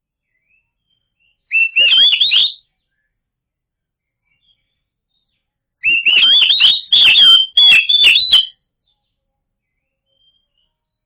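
Oriental magpie-robin (kacer) singing two phrases of quick, varied whistled notes. The first is short, about a second and a half in. The second is longer, about three seconds, and is laced with sharp clicks.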